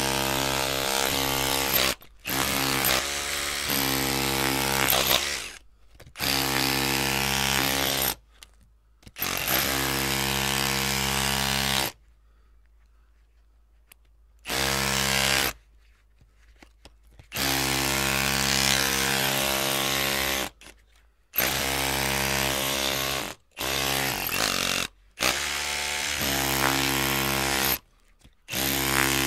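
Electric drill running in about ten short bursts of one to three seconds each, switched on and off again and again, each burst at a steady pitch. A longer pause comes about halfway through.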